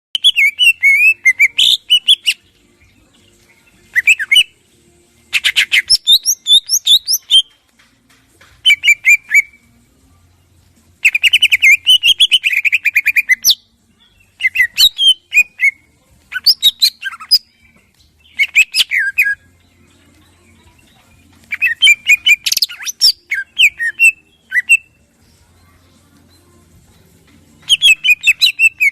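Greater green leafbird (cucak ijo) singing loud bursts of rapid, harsh repeated notes mixed with varied whistled phrases. Each burst lasts a second or two, with short pauses between bursts.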